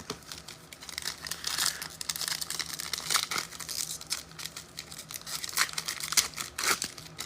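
Foil trading-card pack wrapper being torn open and crinkled by hand, a run of irregular crackles and rustles.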